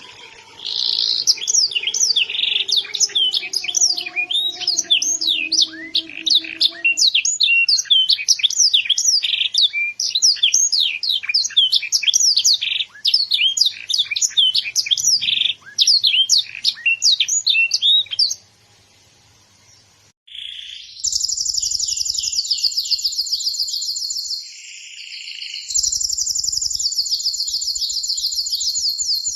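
Domestic canary singing: a long song of quick high chirps and warbles, then after a short pause about two-thirds in, fast rolling trills that run on with only a brief break.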